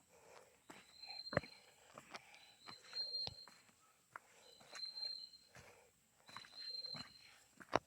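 Footsteps crunching and knocking irregularly on a rainforest trail. Behind them an animal gives a short high-pitched call about every two seconds over a faint steady high whine.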